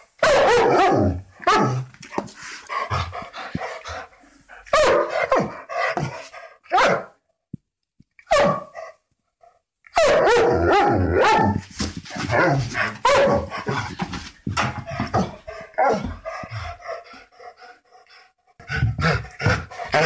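Dogs barking, several different dogs one after another, in bursts of rapid barks with a short lull about eight seconds in.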